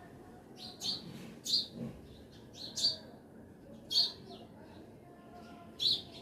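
Small birds chirping: short, sharp chirps, about five loud ones spaced a second or so apart, with fainter calls between them over a faint background hiss.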